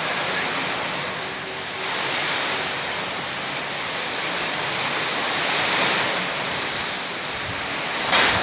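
Heavy rain pouring down in a steady rushing hiss that swells and eases slowly, with a brief louder surge near the end.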